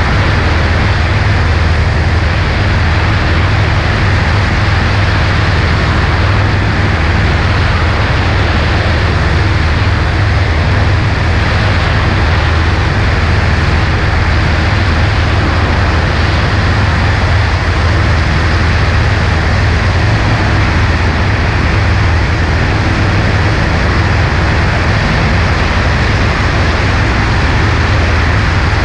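Cessna 140A's piston engine and propeller running steadily, under a constant rush of wind.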